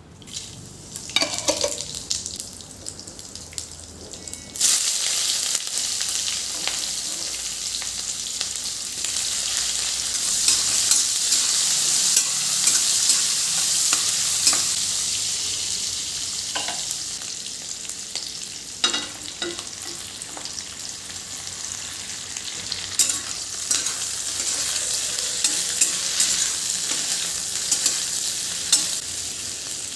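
Food frying in hot oil in a pan: a steady high sizzle that starts suddenly about four seconds in, with scattered clicks and clinks of a utensil stirring.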